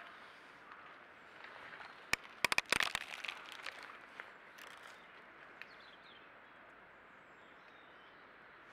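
Outdoor ambience with a steady faint hiss and a few faint bird chirps. A quick run of sharp clicks, the loudest sound, comes about two seconds in and lasts under a second.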